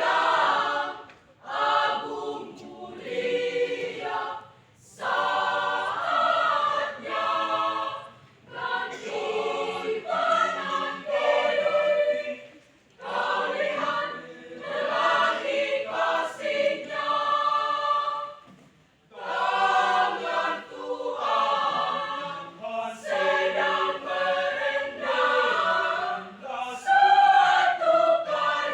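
School choir singing in many voices, in short phrases broken by brief pauses for breath.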